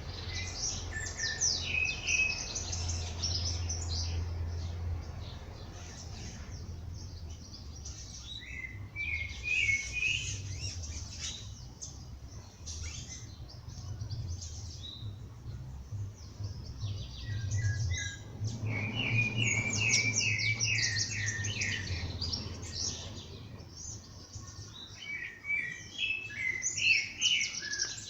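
Songbirds singing at dawn: phrases of quick high chirps and trills that come in bursts every few seconds, with short quieter gaps between them. A steady low hum runs underneath.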